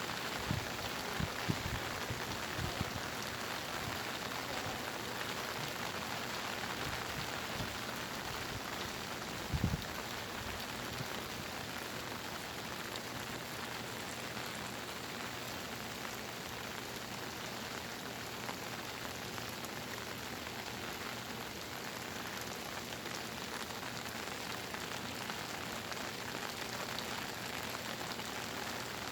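Steady heavy rainy-season rain pouring down. There are a few low thuds of drops striking a surface in the first three seconds, and a louder one about ten seconds in.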